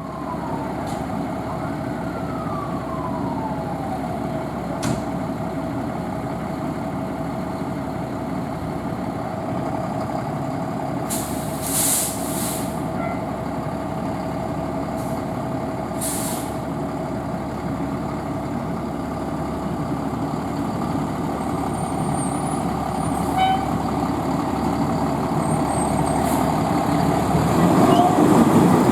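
A fire engine runs steadily while its siren winds down in pitch twice in the first few seconds. Short bursts of air hiss, typical of air brakes, come around the middle, and the engine grows louder near the end.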